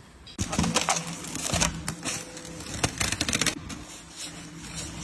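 A run of sharp clattering knocks over a steady mechanical hum, starting suddenly about half a second in.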